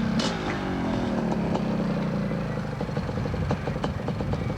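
Motocross motorcycle engines running at speed, one engine note falling in pitch over the first couple of seconds as a bike passes or backs off the throttle.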